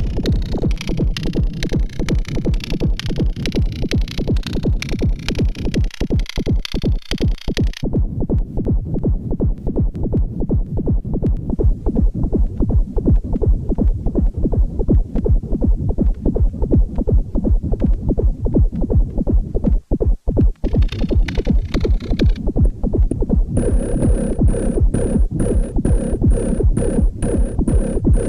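Electronic techno-style beat played on an Erica Synths Perkons HD-01 four-voice drum synthesizer, a steady dense rhythm. A hissing high layer drops out about eight seconds in, the beat cuts out for a moment near twenty seconds, and a high repeating pitched part joins near the end.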